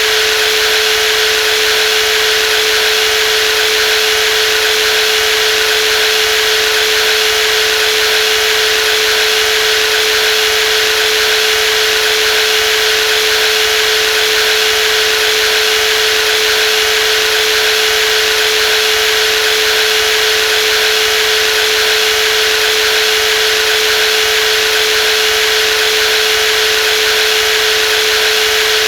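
Brushless jigsaw running at constant speed: a steady, unchanging motor tone with a hiss above it.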